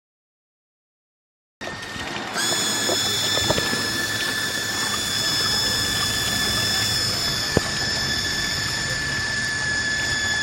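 Silence for about a second and a half, then a steady rushing noise joined by a steady high-pitched mechanical whine made of several tones, with one short click about halfway.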